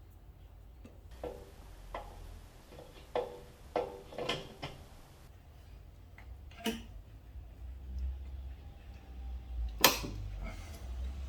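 Scattered metallic clinks and knocks of hand tools and carburettor parts being handled while a rebuilt carburettor is fitted to the engine, several with a brief ring and one sharper knock near the end.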